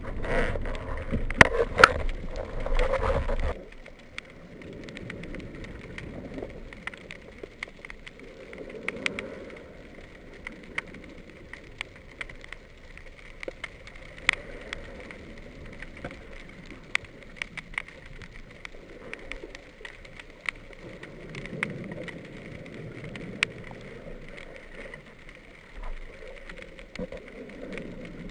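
Underwater ambience in shallow sea: a quiet haze of water noise full of scattered short clicks and crackles. A loud rush of water movement in the first few seconds stops suddenly.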